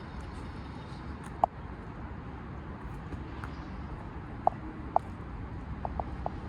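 Steady low outdoor rumble, like distant traffic or wind, with a few short sharp clicks: one about one and a half seconds in, two close together around the middle to later part, and several fainter ones near the end.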